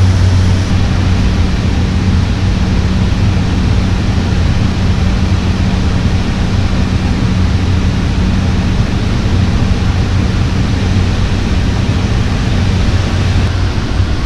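Cessna 208's single PT6A turboprop engine and propeller running steadily: a loud, even rush of noise over a constant low droning hum.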